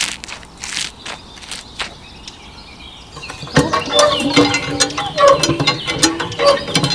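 Small handmade mini hand pump being worked: a few light clicks, then from about three and a half seconds in a rapid run of squeaks and clicks from the moving handle and plunger.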